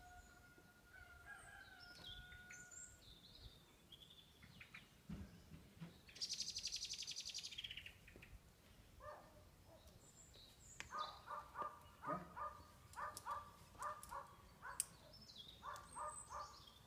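Faint birdsong: a high, rapid trill about six seconds in, then a run of short, repeated calls through the second half.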